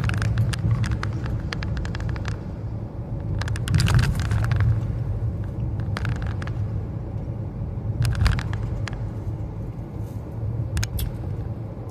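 Road noise inside a moving car's cabin: a steady low rumble from the tyres and engine, with bursts of clattering knocks as the car rolls over bumps and cracks in a rough, potholed street.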